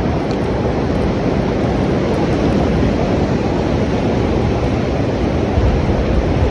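Steady rain ambience: a dense, even wash of noise, heavy in the low end, with a deeper rumble swelling near the end.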